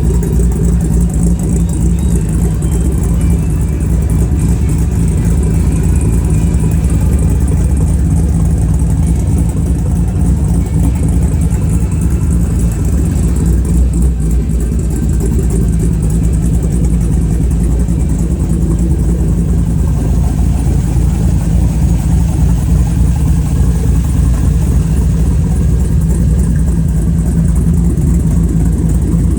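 6.0-litre L96 LS V8 in an engine-swapped 1998 GMC Sierra, running steadily at idle on its first start-up after the swap and cam install.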